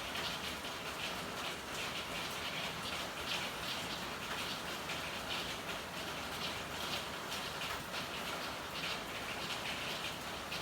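Rain falling in an alley: a steady patter with many irregular drips and splashes.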